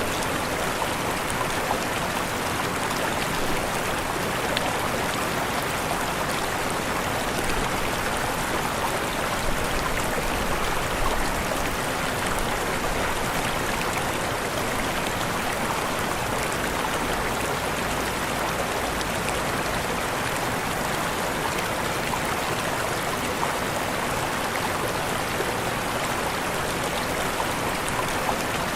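Waterfall: steady, unbroken rush of falling water with no let-up.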